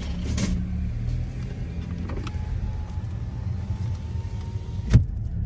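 Car running at low speed, heard from inside the cabin as a steady low rumble as it pulls away from the drive-thru, with a faint thin whine from about two seconds in and a single sharp thump just before the end.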